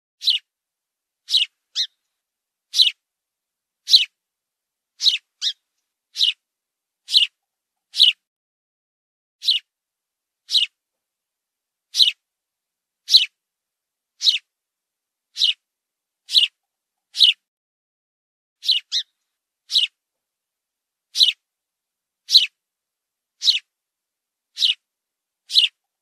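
Fledgling songbird calling: short, high-pitched cheeps that fall steeply in pitch, repeated about once a second, some in quick pairs, with silence between.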